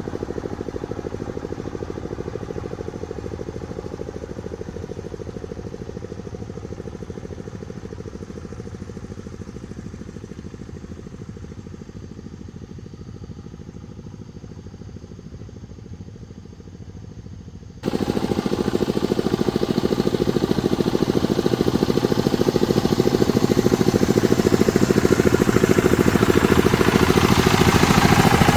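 A motor-driven machine running steadily. The sound fades slowly for about 18 seconds, then jumps abruptly to a louder, harsher machine run.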